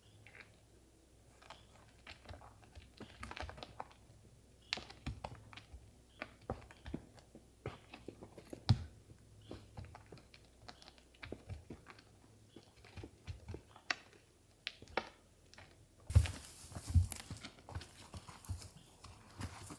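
Fallen wood being gathered on a forest floor: irregular footsteps, twigs snapping and sticks knocking together. Near the end comes a louder stretch of rustling with a few heavy thumps.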